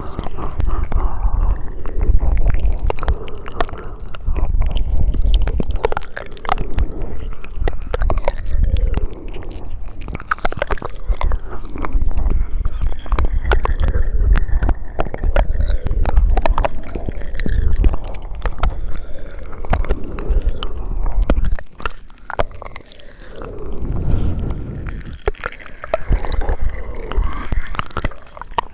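Close-miked ASMR mouth sounds: wet clicks, smacks and squelches of lips and tongue, close together and continuous, easing off for a few seconds about three-quarters of the way through.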